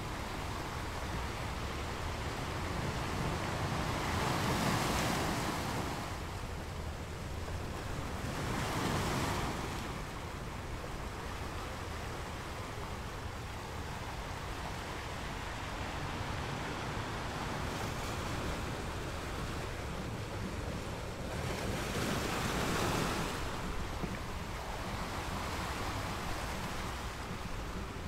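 Ocean surf: large waves breaking and churning into foam, a continuous wash over a steady low rumble, with louder crashes about four, nine and twenty-two seconds in.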